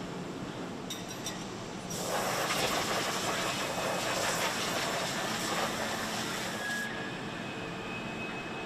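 Steady machinery noise of a factory floor. About two seconds in, a loud hiss starts and holds, then cuts off sharply about five seconds later.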